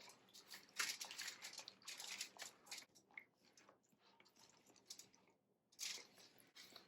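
Hands rubbing and massaging a wet marinade into a whole raw chicken and under its skin: faint, irregular squishing and crackling, busiest in the first few seconds, with a brief pause shortly before the end.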